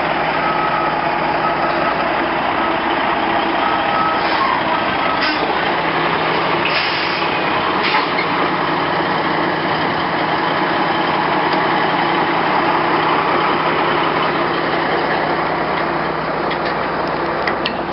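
Heavy truck's engine running steadily as it manoeuvres, with the truck's reversing beeper sounding in short beeps early on. A few brief sharp noises, hisses or knocks, come between about five and eight seconds in.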